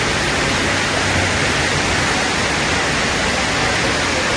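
Steady, loud rush of flowing water, an even noise with no breaks.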